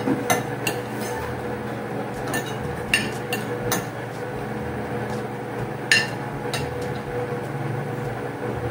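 Spoons and forks clinking against plates and bowls during a meal: scattered light clinks, the sharpest about three and six seconds in, over a steady background hum.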